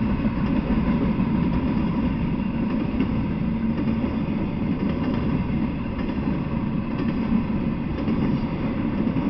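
Intermodal freight train rolling steadily past, a continuous low rumble of wheels on rails from flatcars carrying truck trailers.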